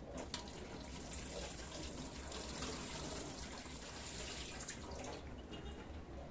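A click, then water running from a kitchen tap into the sink for several seconds, stopping near the end.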